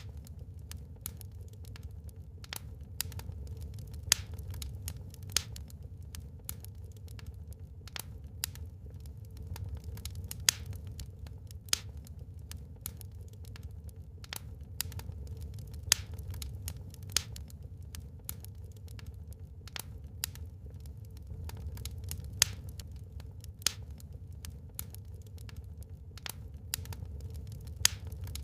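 Wood fire burning in a fireplace: sharp, irregular crackles and pops several times a second, a few of them louder, over a low steady rumble.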